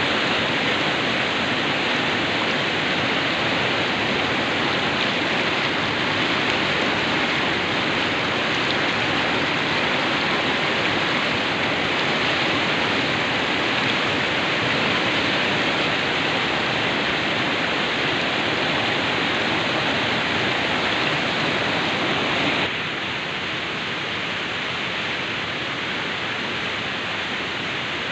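Fast river water rushing steadily. About three-quarters of the way through it drops suddenly to a quieter, steady hiss.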